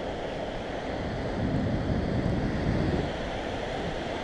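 Ocean surf washing ashore, with wind rushing on the microphone; the wash swells a little louder in the middle.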